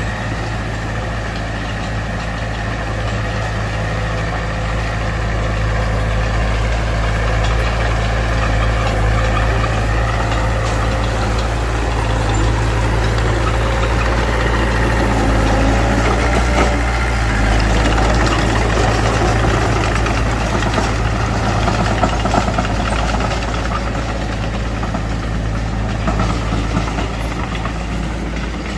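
Diesel engine of a Mitsubishi BD2F bulldozer running steadily under work, growing louder through the middle and easing off toward the end.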